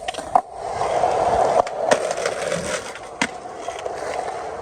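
Skateboard wheels rolling on pavement, a steady grinding roll with several sharp clacks as the wheels pass over cracks.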